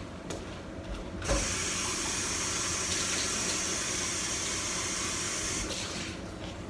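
Kitchen tap turned on about a second in, water running steadily into the sink for about four seconds, then shut off.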